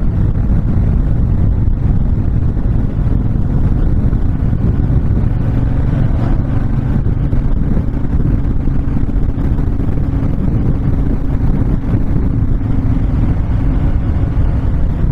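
Honda VTX1300 cruiser's V-twin engine running steadily at road speed, with wind rushing past.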